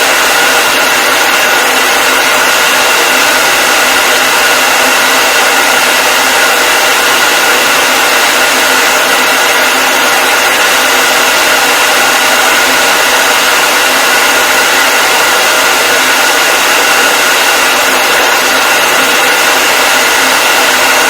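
Hair dryer running steadily: a loud, even rushing of air with a steady motor whine over it.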